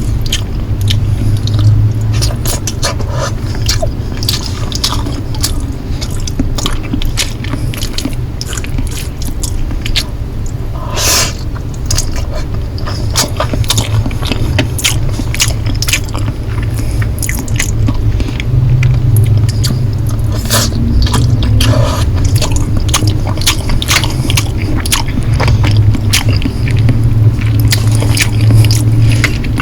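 Close-miked chewing of Korean noodles: a dense, irregular run of short wet mouth clicks and smacks, with a longer rush of noise about eleven seconds in. A steady low hum runs underneath.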